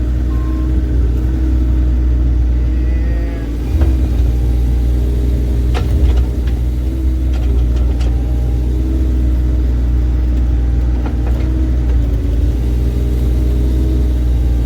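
Bobcat E35 mini excavator's diesel engine running steadily with a deep rumble, dipping briefly about four seconds in. A few sharp knocks come through over it, around the middle.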